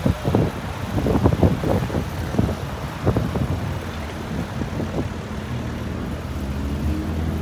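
A car engine running at low revs in street traffic, its low hum settling steadier in the second half, with wind buffeting the microphone.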